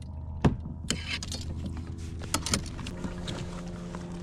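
A sharp knock about half a second in, then scattered clicks and knocks of handling on a fishing kayak, over a steady low hum.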